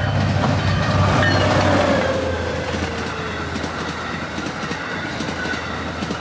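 MBTA commuter rail passenger train passing at speed, its wheels clattering over the rails. It is loudest about one to two seconds in, with a tone falling in pitch as the train goes by.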